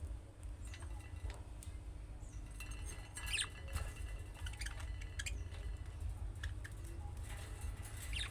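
Budgerigars chirping: scattered short, high chirps and clicks, a cluster of louder calls about three to four seconds in, over a steady low hum.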